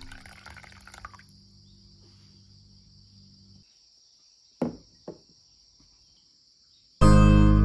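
Hot water pouring into a bowl of miso soup, fading out about a second in. Then two knocks, half a second apart, of a small stoneware bowl being set down on a table, the first with a brief ring. Acoustic guitar music starts near the end.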